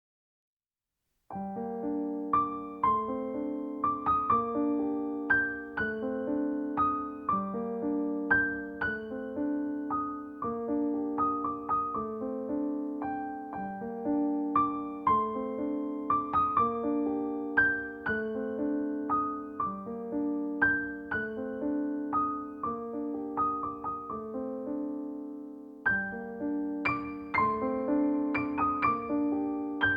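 Gentle piano music: repeating arpeggiated patterns of notes, starting about a second in, with a short pause near the end before the pattern resumes.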